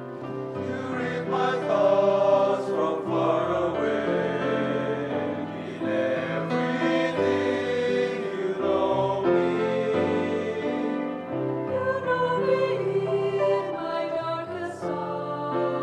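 Choir singing in harmony, several voice parts holding long notes that move from chord to chord without a break.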